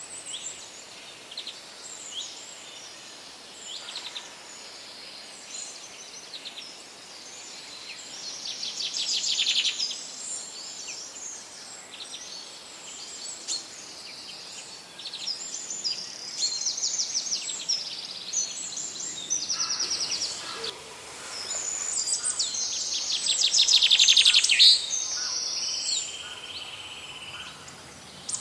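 Several birds singing together in forest, short high chirps and fast trills overlapping, over a steady background hiss. The trilling swells louder three times, loudest about three-quarters of the way through.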